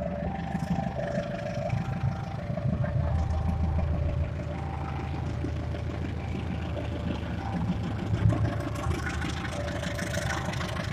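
Electronic two-tone warning signal of a railway level crossing, stepping back and forth between a lower and a higher note over and over, over the low rumble of running engines.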